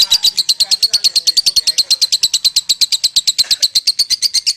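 Lovebird singing its long 'ngekek' chatter: an unbroken, rapid run of high, sharp notes at about ten a second.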